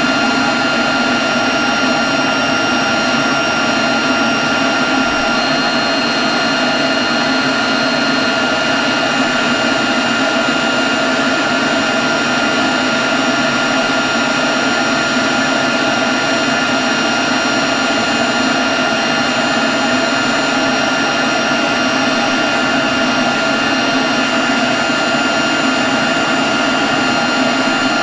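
Leaf blower running steadily at one speed: a constant rush of air with a high, steady whine over it.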